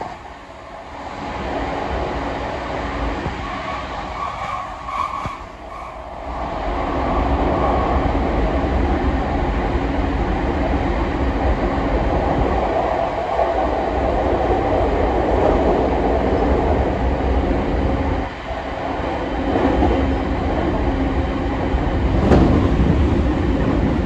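Running noise of a JR E231-0 series electric commuter train heard from inside the passenger car: steady rumble of wheels on rail and running gear, growing louder about six seconds in. Near the end there is a single sharp knock.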